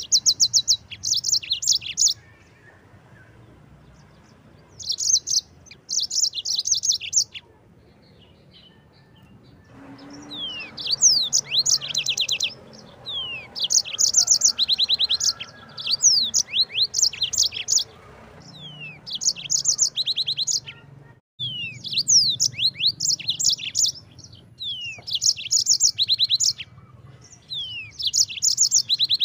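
Yellow-fronted (Mozambique) canary singing in a long series of short, high, fast-trilled phrases mixed with quick downslurred notes. The phrases are spaced by brief pauses at first and come nearly back to back from about a third of the way in.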